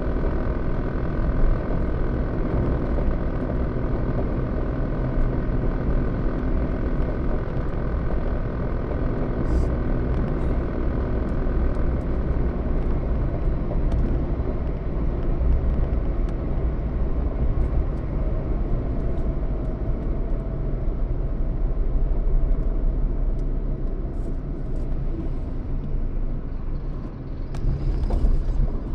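A motor vehicle running steadily: low engine and road rumble with a faint steady hum, holding the same level throughout.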